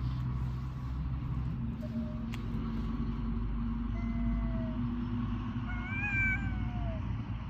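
Stray cat meowing three times: a short meow, a longer one, and the loudest, rising then falling, near the end. A steady low rumble underneath.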